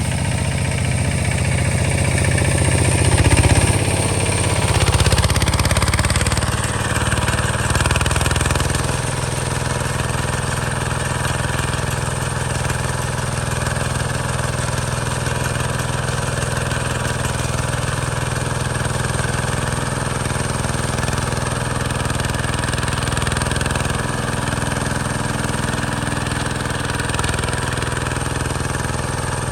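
Hinota HG Gold 155 DI tractor's diesel engine running. It is louder and uneven for the first several seconds, then settles to a steady run.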